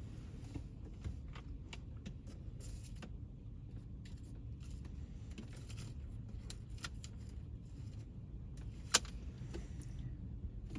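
Low, steady rumble of an idling truck engine, with scattered light clicks and clatter and one sharp click near the end.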